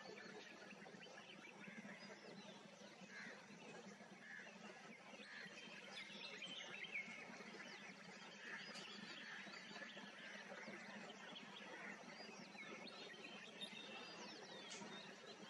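Faint chirps and calls from several birds, short overlapping notes scattered throughout, over a faint steady low hum.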